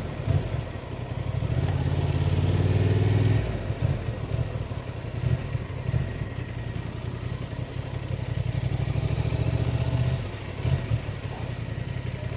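Honda Transalp motorcycle engine running at low speed, louder for the first few seconds, then dropping to a lower, steadier note with a few light knocks.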